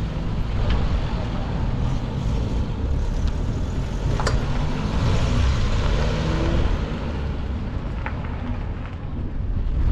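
A car's engine running, a steady low rumble, with a sharp click about four seconds in.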